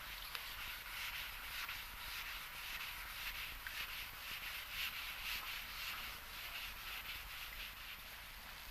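Abrasive paper rubbed back and forth by hand over a surface, a continuous scratchy rubbing in uneven strokes with no motor tone: sanding to prepare the area for a spot repair.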